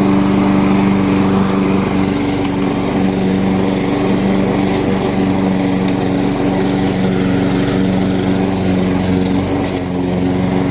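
Weed Eater walk-behind lawn mower's small engine running steadily at a constant speed.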